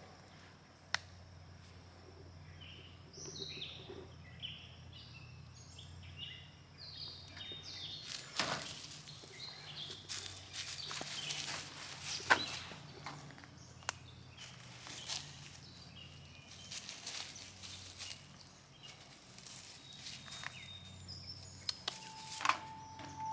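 Footsteps on an outdoor path, with a few bird calls about three to seven seconds in and a low steady hum underneath.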